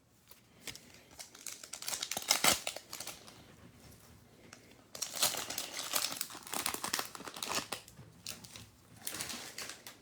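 Crinkly plastic-foil wrapper of a trading-card pack being torn open and crumpled in the hands. The crackling comes in bunches, loudest in the first half, with a second long bout from about five seconds in.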